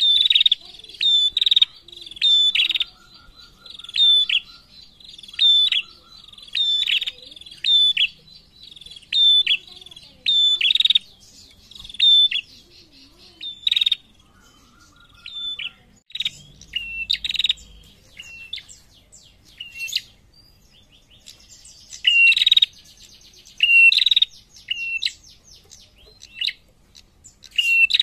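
Female prenjak in a cage calling vigorously: loud, sharp chirping notes repeated in quick bursts every second or two, softer for a few seconds past the middle, then loud again near the end.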